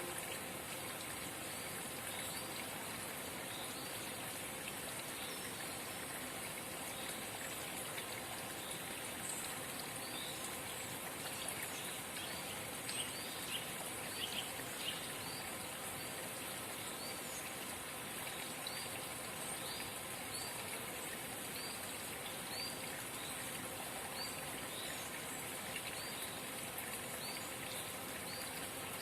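A forest spring babbling and trickling steadily, with a small bird repeating short high chirps about once a second and a few louder chirps around the middle.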